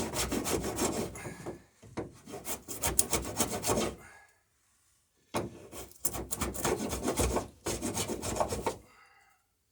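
Low-angle block plane shaving a wooden plank's bevelled edge in quick strokes, in three bouts with short pauses between, trimming the transom bevel to a final fit.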